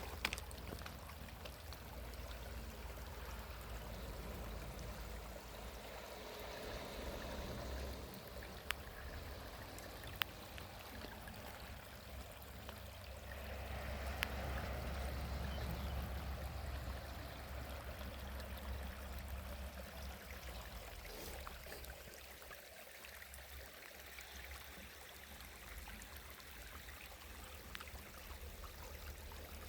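Running water, a steady stream-like rush that swells a little twice, with a few sharp clicks and a low rumble underneath.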